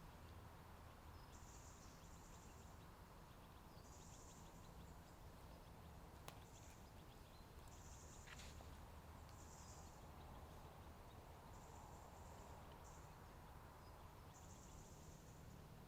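Faint outdoor ambience with an insect chirring in short high-pitched bursts every second or two, over a low steady hum. A single soft click comes about six seconds in.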